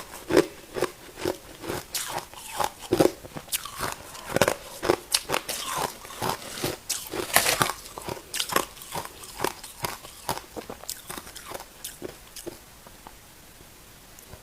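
A person biting and chewing ice: a quick run of sharp, crackling crunches that thins out and stops about twelve seconds in.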